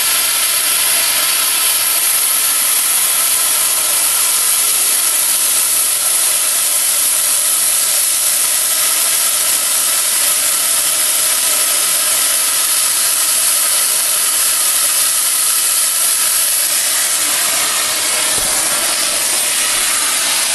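Oxy-fuel cutting torch hissing steadily as it flame-cuts a piece of 141-pound steel railroad rail.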